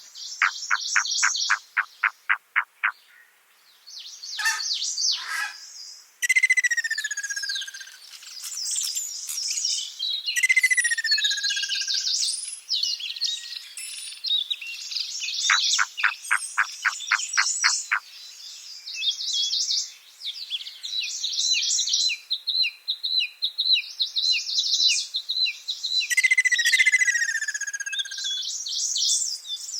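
Several songbirds singing and calling at once, with dense high chirping. Rapid trills of evenly spaced notes come near the start and again about halfway through. A clear falling whistle sounds three times.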